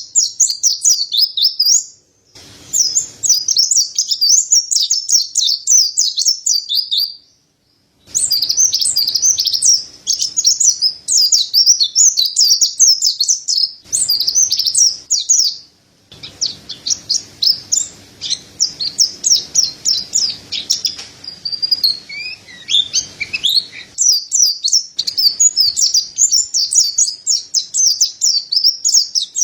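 Mountain white-eye (pleci montanus) singing a long, rapid, high-pitched twittering warble in runs of several seconds, broken by brief silences a few times.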